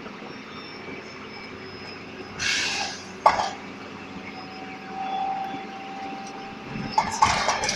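DAF SB120 Cadet bus running steadily, with a short burst of hiss about two and a half seconds in and a sharp knock just after. A steady tone is held for about two seconds in the middle, and short rustling noises come near the end.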